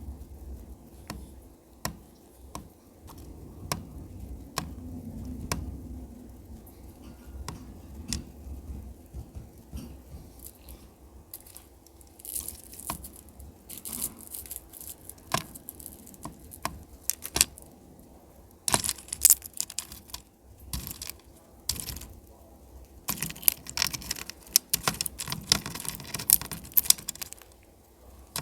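Cockatiel cracking and husking sunflower seeds with its beak: a string of sharp cracks and clicks, with denser bursts of dry crackling in the second half.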